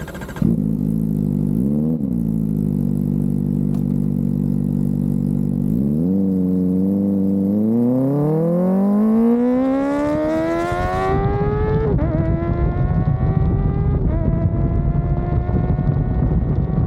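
Kawasaki ZX-4RR's 399 cc inline-four just after starting: it idles with a brief throttle blip and then a second one. Then it revs up steadily in one long rising pull. It drops slightly in pitch at two upshifts, and the pitch keeps climbing after each, with wind noise building underneath.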